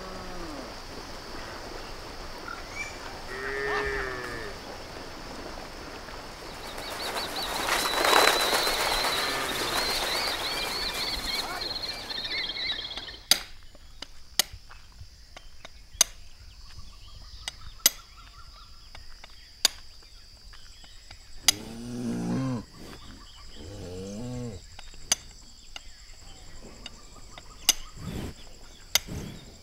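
Cattle lowing over a rush of water as a herd wades through a shallow river. Later come sharp knocks about every two seconds and two more low moos from the cattle or buffalo.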